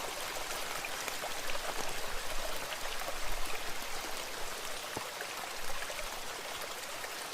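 Steady rain falling, with many separate drops heard striking.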